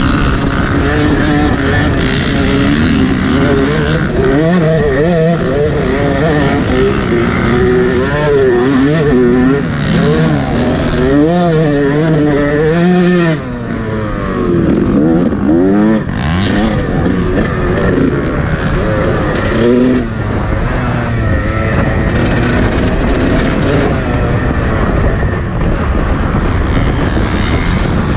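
A Yamaha YZ125 two-stroke motocross bike engine at racing throttle, its pitch rising and falling again and again as it is revved and shifted. About thirteen seconds in, the throttle is briefly chopped.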